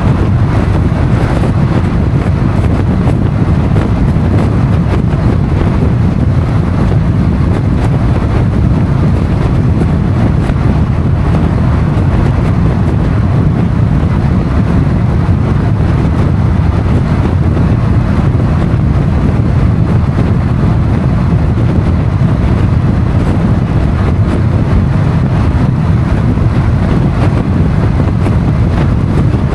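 Motorcycle on the move: a steady rush of wind on the microphone mixed with engine and road noise, with no clear rise or fall in engine pitch.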